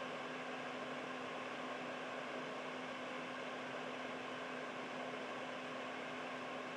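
Household air purifier running steadily: an even fan whoosh of moving air with a faint steady hum underneath.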